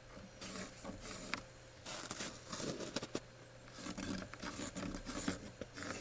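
Faint, irregular scratching and rubbing of a line being marked along a level on the wooden boards of a gate, with a few small knocks.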